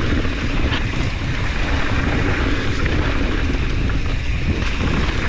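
Wind buffeting the camera microphone over the rolling and rattling of a mountain bike descending a rocky trail: a steady rushing noise, heaviest in the low end.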